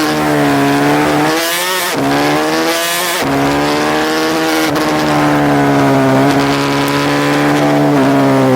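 Racing pit bike engine revving hard on track, its note climbing and dropping back in pitch every second or two as the rider works the throttle and gears.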